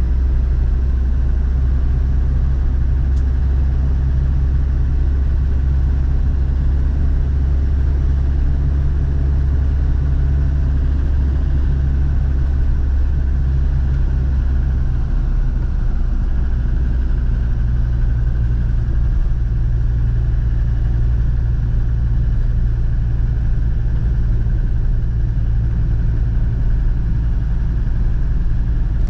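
Land Rover Defender Td5's 2.5-litre five-cylinder turbodiesel running with a steady low rumble; the engine note shifts about halfway through.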